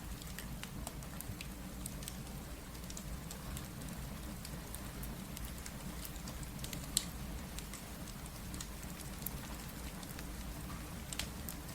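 Steady rain mixed with the crackle of a fireplace: scattered sharp pops over a low, even rush, with one louder pop about seven seconds in.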